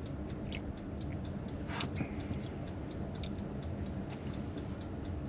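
Steady low mechanical hum with a light, regular ticking about four times a second, and a short hiss about two seconds in.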